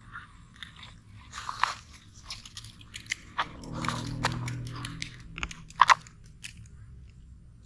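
Toy excavator scooping sand and tipping it into a toy dump truck's bed: irregular gritty crunching and scraping with small plastic clicks. The crunching is densest around the middle.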